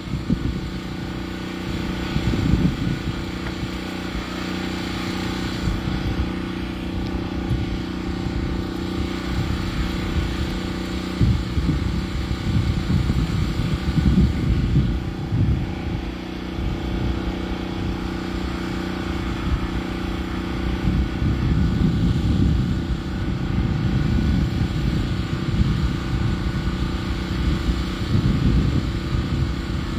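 An engine running steadily, its low rumble swelling and easing at times.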